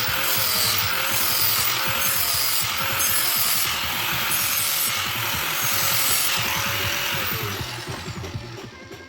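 Electric power tool grinding, its motor pitch wavering under load and then winding down near the end, with background music.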